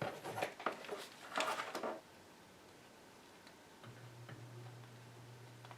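Small metal parts and tools clicking and rattling as they are handled on a workbench for about two seconds, followed by a low steady hum starting about four seconds in.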